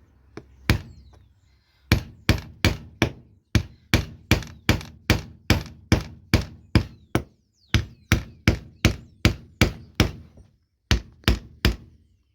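Hammer blows, used to make a hole in a vinyl apron: a long run of sharp strikes, about two or three a second, with a couple of brief pauses.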